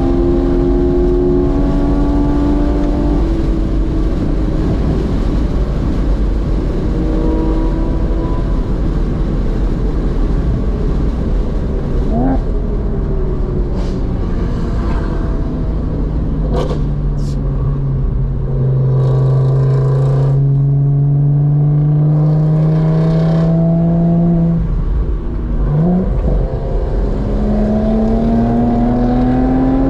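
Porsche Boxster S (986) flat-six heard from inside the cabin at speed over road and wind noise. The engine note climbs and drops through the gears, with short throttle blips on downshifts about twelve and twenty-five seconds in, and runs low and steady in between before pulling up in pitch again near the end.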